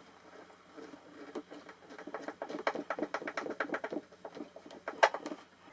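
Slotted wood screw being driven by hand into the wooden tool chest: a quick run of creaking clicks as it turns, with a sharper click about five seconds in.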